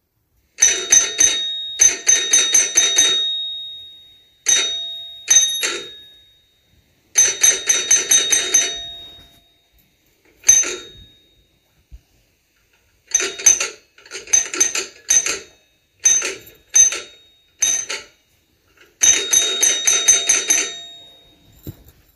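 Doorbell rung over and over in short bursts of rapid strikes, each burst leaving a ringing tone that dies away over a second or two.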